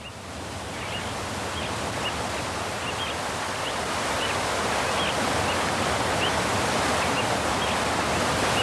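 Steady rush of a waterfall, swelling up over the first few seconds and then holding, with short high bird chirps repeating every half second or so over the water noise.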